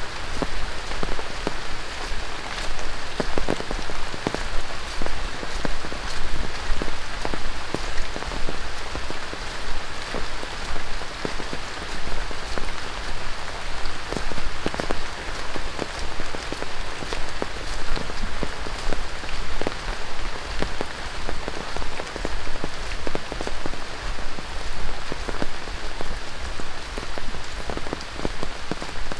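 Steady rain falling on the dense leafy canopy and undergrowth of a tropical rainforest: a continuous hiss with many individual drops pattering on leaves.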